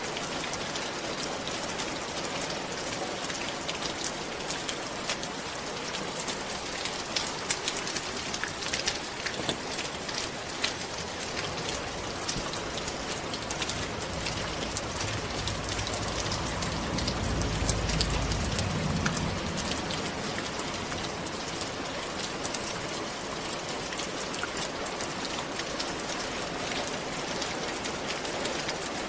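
Steady rain falling on a roof: a dense hiss with many separate drops ticking. A low rumble swells and fades about halfway through.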